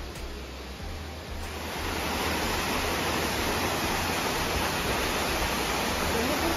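Waterfall's steady rush of falling water, getting louder about two seconds in.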